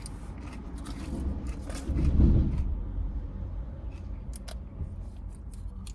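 Crisp crunching clicks of raw lettuce being bitten and chewed, over a steady low hum inside the car. A louder low rumble comes about two seconds in.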